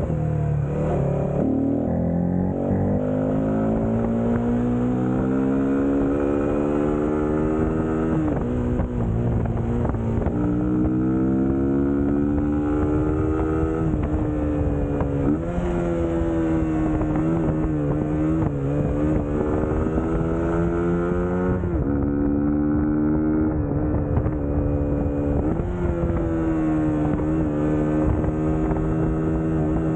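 Suzuki GSX-S150's single-cylinder engine running while riding, its pitch climbing under throttle and dropping back sharply at each gear change or throttle lift, several times over.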